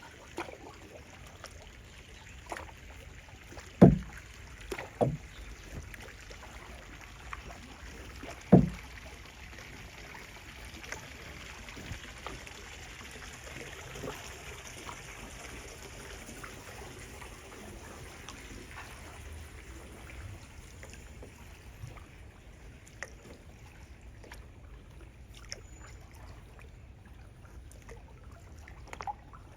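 Kayak being paddled: the paddle working the water with water moving along the hull, and three sharp knocks in the first nine seconds, the loudest about four and eight and a half seconds in.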